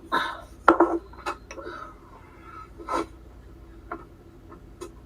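Dishes and utensils being handled: a scattered series of knocks and clinks, the loudest just under a second in.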